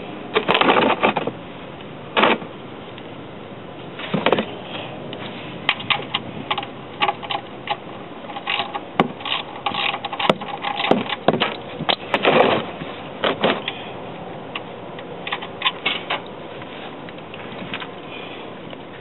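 Hand tools clicking and clinking on a tight oil-pan drain plug as it is worked loose. The clicks come irregularly, with a louder cluster about half a second in and another around twelve seconds in.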